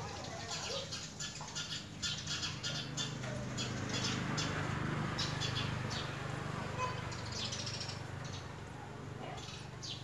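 Birds chirping: short high chirps in quick runs, over a steady low hum.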